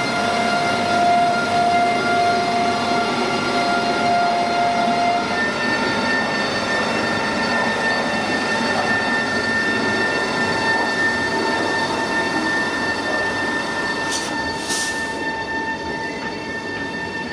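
Electric train moving through a station: a steady rumble of wheels on rails under several high steady tones that jump to new pitches about five seconds in.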